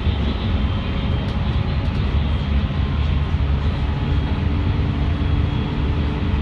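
Electric commuter train on the Tokaido Line running at speed, a steady low rumble of wheels on track, with a steady hum joining about four seconds in.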